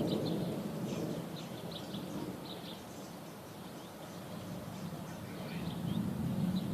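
Distant thunder rumbling low, swelling, fading and swelling again, while small birds chirp briefly over it.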